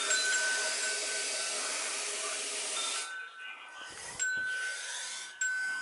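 Toilet tank fill valve hissing as the tank refills, then shutting off about three seconds in as the water reaches the level set by the freshly lowered float.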